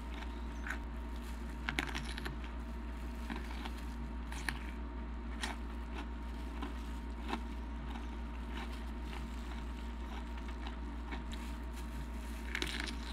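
Close-miked chewing of a jalapeño stuffed with cream cheese and crunchy Takis: scattered faint crunches and clicks over a steady low hum, with a louder crunching bite near the end.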